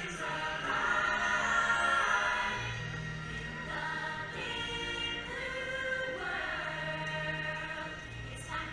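Music with a choir singing long held notes over a steady low accompaniment.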